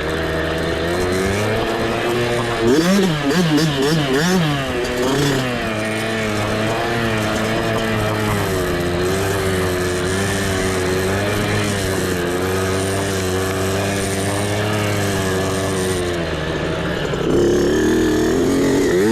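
Mini bike engine running under load, its pitch rising and falling with the throttle, with quick revs about three seconds in and again near the end.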